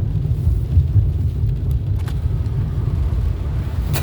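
Low, steady rumble of a car on the road, heard from inside the cabin.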